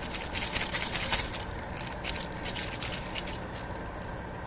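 A quick run of scraping and clicking handling noises for about three seconds, then fading, over a steady low hum from a running microwave.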